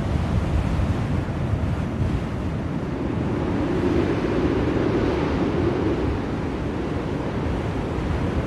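Blizzard wind: a steady rushing wind with a low rumble, swelling in a gust through the middle and easing off again.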